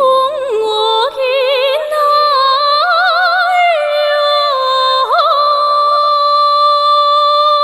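Female solo voice singing a slow melody with vibrato, ending in a long held note from about halfway through that stops just after the end.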